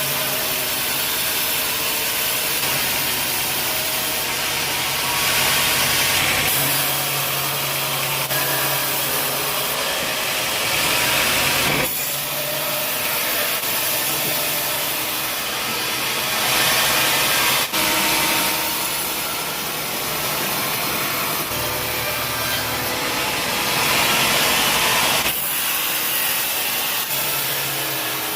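Sawmill saw cutting through a log, a steady rasping run with an engine note underneath, its sound shifting abruptly several times.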